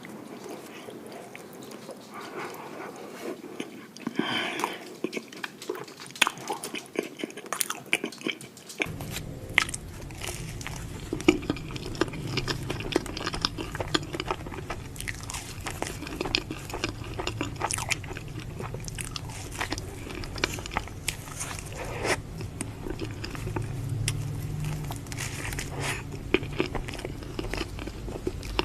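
Close-miked biting and chewing of ice cream sandwiches, with many irregular crunches and mouth clicks. About nine seconds in the background changes abruptly and a steady low hum joins the eating sounds.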